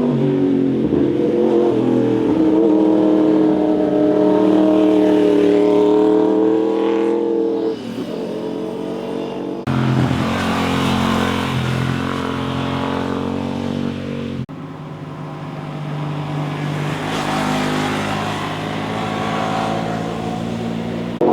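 Motorcycle engines revving and changing pitch as bikes ride past through corners. The sound changes abruptly about ten seconds in and again a few seconds later, as if from one passing bike to another.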